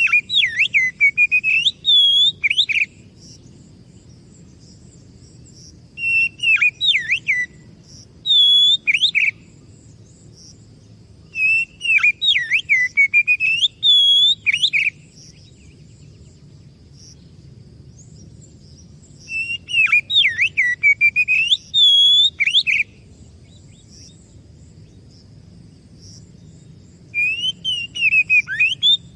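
Oriental magpie-robin (kacer) singing in phrases of rapid, varied whistles, rising and falling. It sings six bursts of one to four seconds, with pauses of a few seconds between them. A steady low background noise and a faint, continuous high buzz run underneath.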